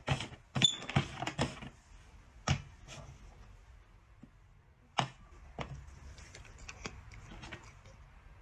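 A series of sharp clicks and knocks: a quick run in the first second and a half, then scattered single knocks and a looser cluster of fainter clicks near the end.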